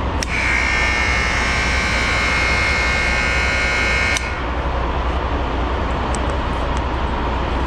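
Check-in door buzzer pressed, sounding one steady electronic buzz for about four seconds that cuts off suddenly, over a steady low rumble.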